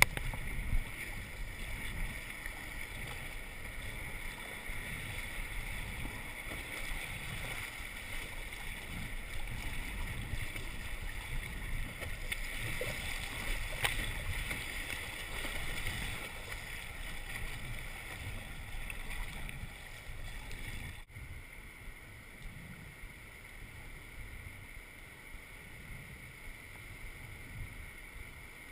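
Kayak on a river heard through a GoPro: a steady wash of moving water with uneven low wind buffeting on the microphone. It drops out for an instant about two-thirds of the way through and is a little quieter after.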